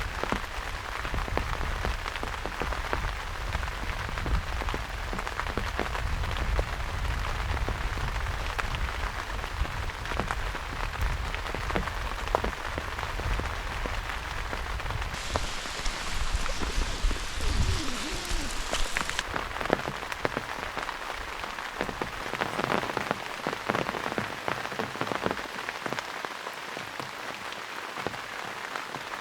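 Steady rain falling, with many separate drops tapping through a dense hiss.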